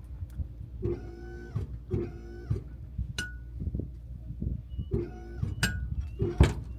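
A boat's dinghy crane motor whining in short jogged bursts. Each burst rises in pitch as it starts and cuts off abruptly, with clunks and knocks between bursts and one sharp knock near the end.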